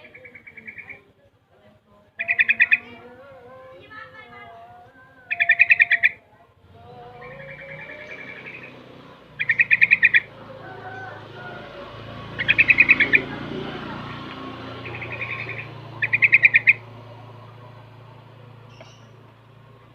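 Young sooty-headed bulbul (trucukan) giving short, rapid rattling trills, repeated every two to three seconds. A faint low steady hum comes in about seven seconds in.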